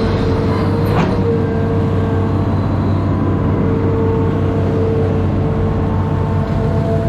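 Amphibious excavator's diesel engine running steadily, with a steady whine above it and one sharp click about a second in.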